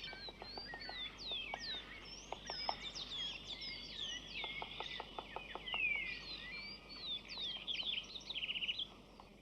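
Forest birds calling, with many quick sliding chirps and whistles and a short rapid trill near the end. Underneath them come faint runs of taps, a woodpecker hammering at bark.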